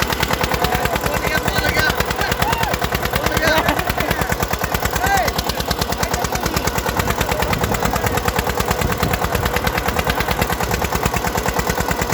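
Eicher tractor's diesel engine pulling a harrow weighted with two riders, working under load with a fast, steady chugging exhaust beat.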